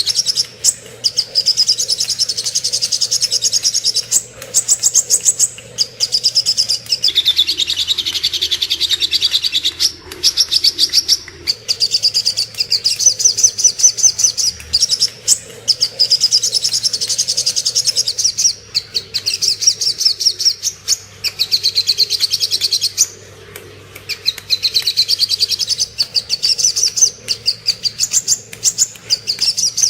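Sogok ontong birdsong: fast, high-pitched trilled phrases of rapid notes, repeating one after another with only brief pauses.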